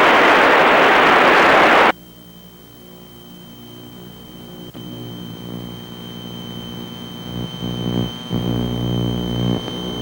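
A loud burst of radio static hiss that cuts off sharply after about two seconds, then the steady drone of the Piper Seneca's twin piston engines and propellers in the climb, heard through the cockpit intercom and slowly growing louder.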